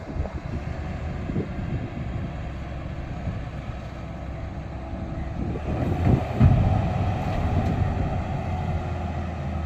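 Tata Signa 4825 tipper truck's diesel engine running with a steady low drone. It grows louder about six seconds in, with a few knocks.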